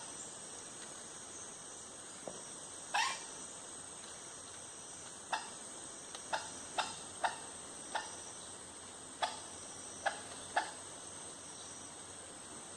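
Steady, high-pitched insect drone, with about nine short, sharp animal calls at irregular intervals.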